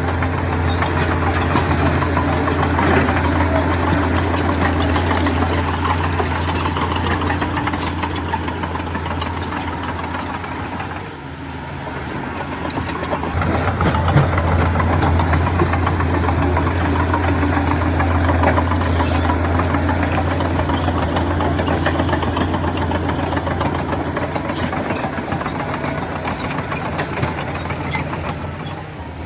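Heavy diesel earthmoving machinery running steadily. It eases off about eleven seconds in, then builds up again under load.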